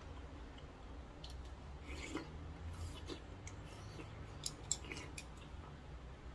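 Close-up chewing of seafood noodles: wet mouth smacks and clicks, scattered irregularly and thickest through the middle, with one sharper click a little after the middle.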